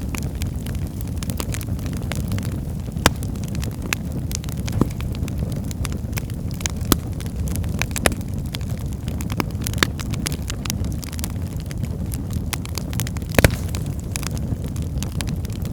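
Wood fire burning in a fireplace: a steady low rumble with frequent sharp crackles and pops from the burning logs, the loudest pop near the end.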